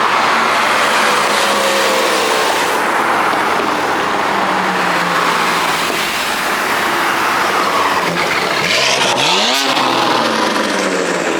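Steady car and traffic noise, with a car engine revving up sharply about nine seconds in and then dropping away.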